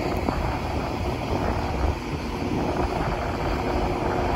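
Electric passenger train rolling past as it pulls into the station, a steady rumble of wheels on rails with wind buffeting the microphone.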